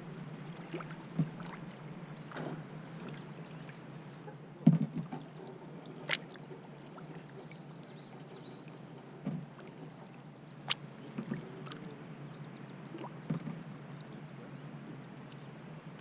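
Kayak paddling: paddle strokes through the water with scattered sharp knocks, the loudest about five seconds in.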